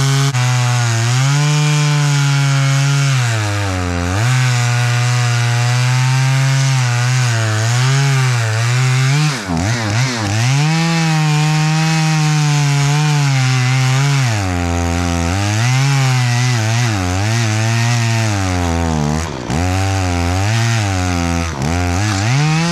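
Two-stroke chainsaw cutting into a thick juniper trunk. The engine runs near full throttle, its pitch sagging and climbing back again and again as the chain bogs in the wood, with two deeper dips about a third and a little over four-fifths of the way through.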